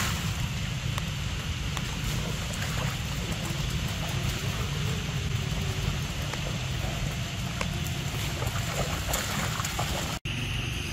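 Steady rain falling over flooded ground, with a low wind rumble on the microphone and a few faint splashes. The sound drops out for an instant near the end.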